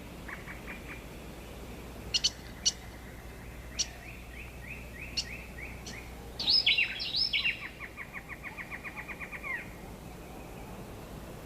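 Rainforest birds calling over a faint steady background: scattered short, sharp chirps, then a loud cluster of falling calls about six and a half seconds in, followed by a quick run of repeated notes, about seven a second, that stops near ten seconds.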